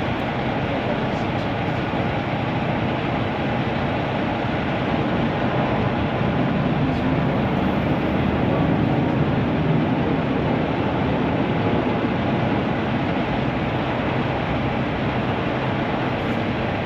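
Steady engine rumble of an idling truck, unchanging throughout.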